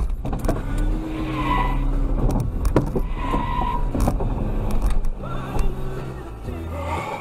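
A car's engine running at idle, heard from inside the cabin, with the car stopped against a minibus right after a collision. There is a low steady hum and a few scattered clicks and knocks.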